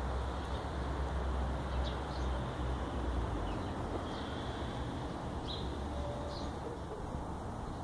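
A few short, high bird chirps every second or so over a steady low rumble that is heavier in the first three and a half seconds.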